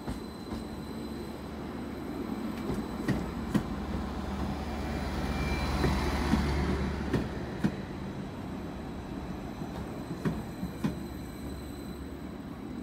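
Greater Anglia Stadler FLIRT multiple unit running into the platform and passing close by. Its low rumble swells to a peak about six seconds in and then eases, with sharp clicks and clanks of the wheels over rail joints throughout.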